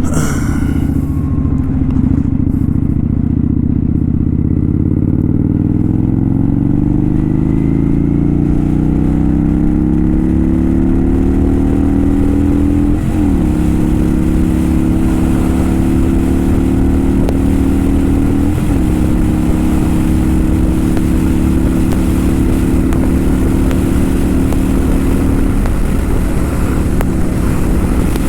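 Kawasaki Vulcan 900 V-twin motorcycle engine accelerating under way, its pitch rising steadily. The pitch drops sharply twice, about 13 and 18 seconds in, as it shifts up, then holds steady while cruising.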